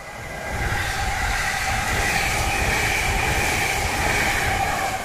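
Electric express train passing close by: the rumble of wheels on rail, with a steady high hum over it. It builds over the first second, holds steady as the carriages go by, and falls away at the very end.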